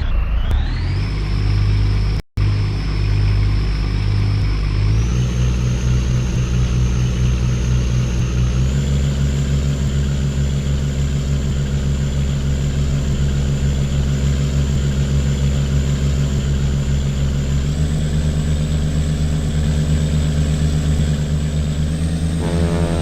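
Boat engine running steadily under way, its speed stepping up several times as the throttle is opened in stages. The sound cuts out for an instant about two seconds in.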